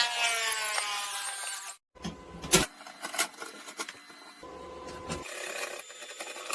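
Electric power tool's motor whining down in pitch as it is released, cut off suddenly just under two seconds in, followed by scattered metal workshop clicks and knocks.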